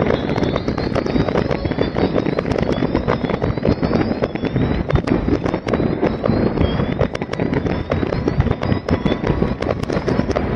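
Fireworks display played backwards: dense crackling and popping over a steady low rumble, with short rising whistles recurring about once a second.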